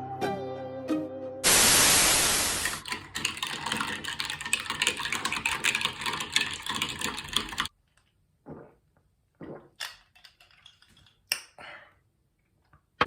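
Music that stops after a second or so, then a loud burst of hiss like static lasting just over a second, followed by dense crackling clicks that cut off abruptly. After that it is mostly quiet, with a few scattered soft clicks and rustles and one sharp click at the end.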